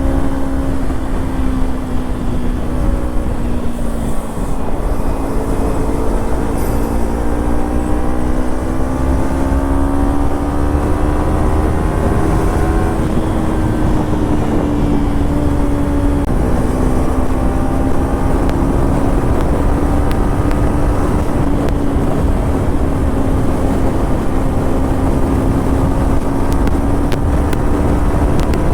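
Kawasaki Ninja 300 parallel-twin engine through a Yoshimura slip-on exhaust, riding under way. Its pitch dips, climbs steadily for several seconds, drops abruptly about sixteen seconds in, then holds at a steady cruise, over a low wind and road rumble.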